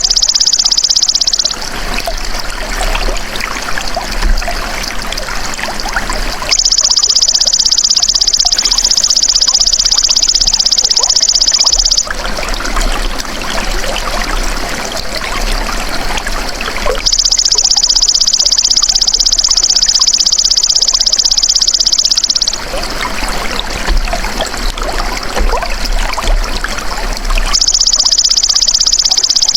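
A belalang emas (golden grasshopper) singing in a high, dense buzzing trill that comes in spells of about five seconds with pauses of about five seconds between them. Under it runs the steady trickle of flowing water, which is heard clearly in the pauses.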